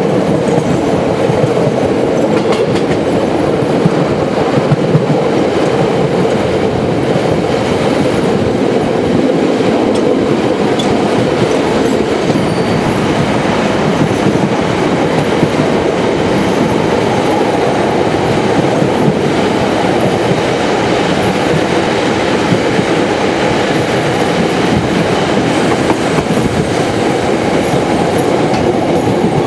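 Steady running noise of train wheels on rails, heard from aboard a moving train.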